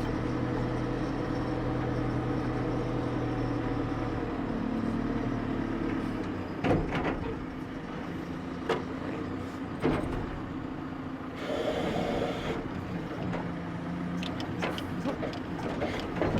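A truck engine running at idle with a steady hum. In the second half come a few separate clunks and a brief hiss lasting about a second.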